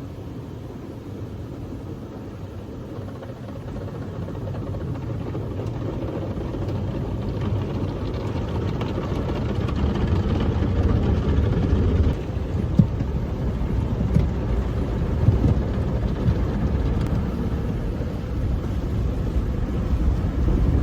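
Automatic car wash heard from inside the closed car: a steady rumbling wash of water spray and machinery that slowly grows louder, with a few sharp knocks a little past halfway.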